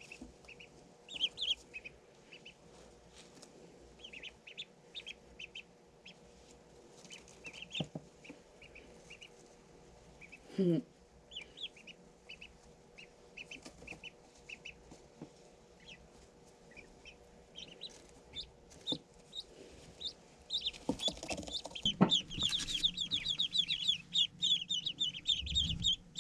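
Ducklings peeping: scattered short, high peeps at first, then a dense chorus of rapid peeps from about 21 seconds in, with a few knocks and some rustling.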